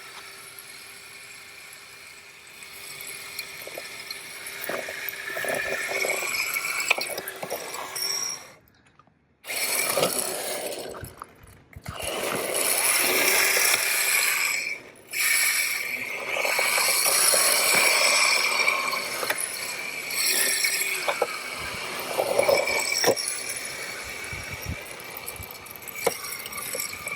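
MJX Hyper Go 14302 RC rally car's brushless electric motor whining as it surges and eases with the throttle, its hard drift tyres scrubbing and scraping while it slides. The sound cuts out almost completely twice, about a third of the way in and again just past halfway, when the throttle is released.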